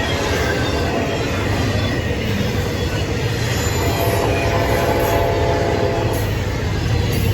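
Norfolk Southern train rolling past, a steady rumble of wheels on the rails, with faint steady tones joining about halfway through.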